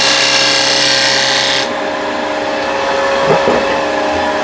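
A turning tool cutting the spinning wood on a Vicmarc VL300 wood lathe, a hissing cut that stops about one and a half seconds in. The lathe keeps running after that with a steady hum.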